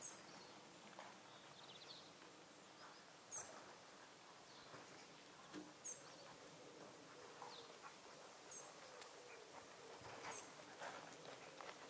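Quiet outdoor ambience with a small bird chirping, a short high call repeated every two to three seconds, and a few faint soft knocks.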